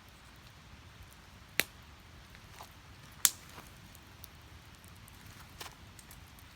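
Wood fire burning, with scattered sharp crackles and pops from the burning logs; two loud pops come about a second and a half in and about three seconds in.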